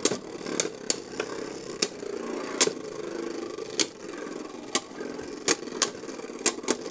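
Beyblade Burst tops spinning in a stadium with a steady whir, knocking together in about a dozen sharp clacks at irregular intervals.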